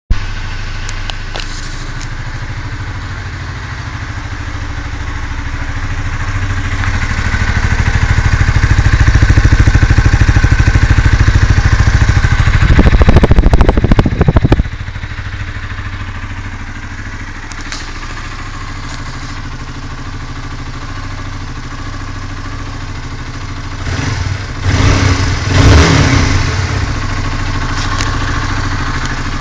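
Honda CBR125R's single-cylinder four-stroke engine through its stock exhaust. It idles, then the revs climb slowly and hold high for several seconds. It is revved hard in sharp blips for about two seconds, then drops suddenly back to idle, and near the end the throttle is blipped a few more times.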